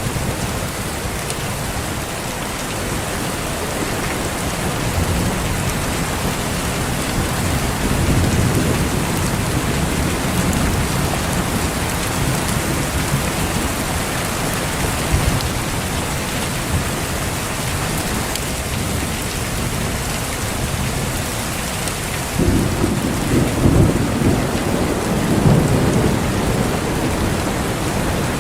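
Heavy rain falling steadily, with thunder rumbling low underneath; a louder rumble of thunder breaks in suddenly about three-quarters of the way through and rolls on for several seconds.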